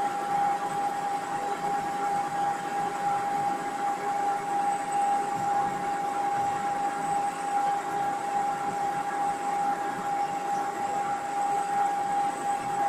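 Metal-turning lathe running, a steady high whine over constant machine noise.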